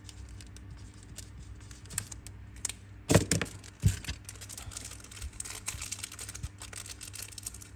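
Many small clicks and taps of a Zippo lighter being handled, with two louder clacks about three and four seconds in.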